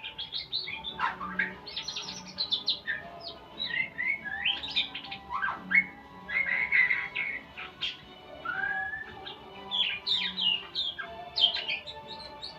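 Murai songbird singing a continuous, rapid run of varied whistles, chirps and sweeping notes. It is delivered as a training song ('masteran') for caged birds to learn.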